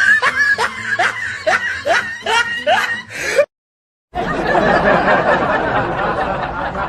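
Laughing sound effect: a rhythmic snickering laugh of short rising bursts, about three a second, cut off suddenly just over three seconds in. After half a second of silence a second, denser stretch of laughter starts.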